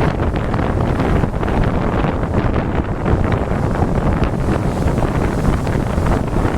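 Strong wind buffeting the microphone in a steady low rumble, with lake surf breaking underneath.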